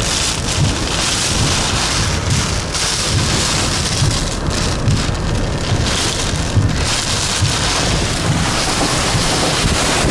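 Roar of a hurricane's eyewall: hurricane-force wind driving heavy rain, buffeting the microphone in continuous gusts that swell and ease.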